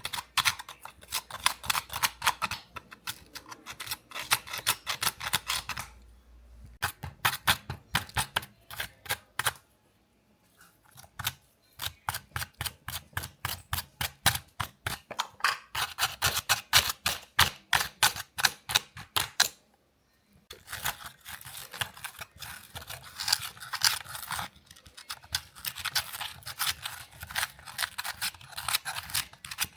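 Quick, rhythmic scrubbing of a small brush over a scale model car, several strokes a second. The scrubbing stops briefly twice, about a third and about two-thirds of the way through.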